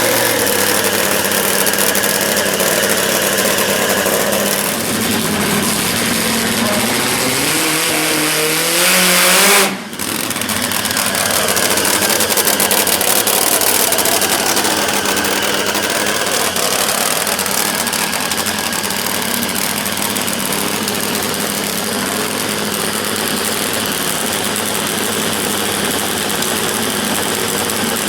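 Drag-racing motorcycle engines running. One rises steadily in pitch from about five seconds in to its loudest point near ten seconds, then breaks off abruptly, and steady engine noise carries on after.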